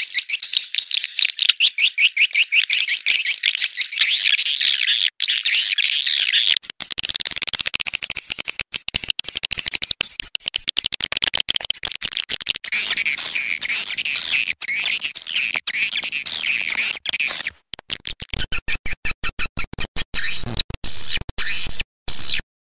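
Swiftlet call lure recording: dense, rapid, high-pitched twittering chirps with quick clicks. A lower buzzing layer joins from about halfway, and after about three quarters of the way the chirps turn choppy, with short breaks.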